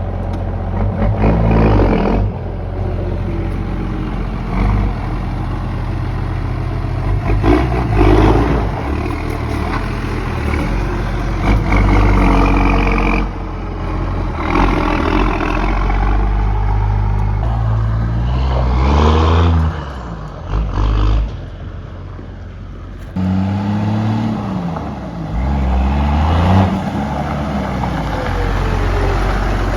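1993 Dodge Ram's 5.9 12-valve Cummins turbo diesel pulling the truck along, its pitch rising and falling several times as it revs up through the gears, with a couple of brief drops where it eases off between shifts.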